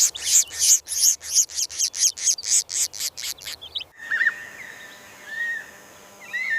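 Bird calls: a rapid series of harsh, raspy calls, about four a second, that stops abruptly about four seconds in, followed by short, thin whistled chirps.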